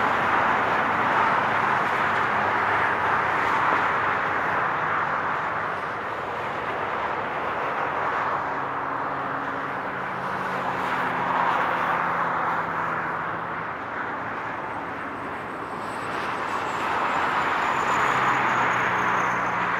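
Continuous highway traffic: the tyre and engine noise of passing vehicles, swelling and fading as each goes by, with a low engine drone in the middle and again near the end.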